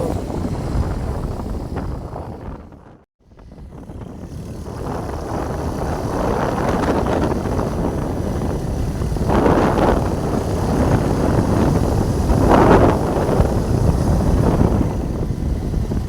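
Wind buffeting the microphone on a moving motorbike, a steady rumbling rush that drops out briefly about three seconds in, then returns with two louder gusts later on.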